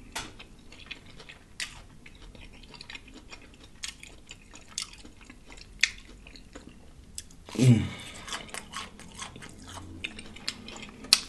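Close-miked chewing of crispy fried food: wet mouth clicks and smacks all through. About seven and a half seconds in comes a short hummed "mmm" that falls in pitch, and near the end a sharp smack.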